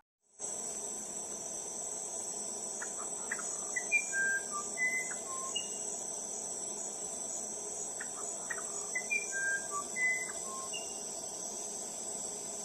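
Musician wren (uirapuru-verdadeiro) singing two phrases of short, clear whistled notes that jump between different pitches. The phrases come about 3 seconds in and again about 8 seconds in, over a steady high-pitched insect hum.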